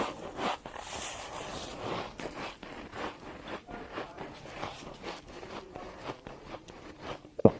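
Freezer frost being bitten and chewed: a run of irregular crisp crunches, with one loud dull thump near the end.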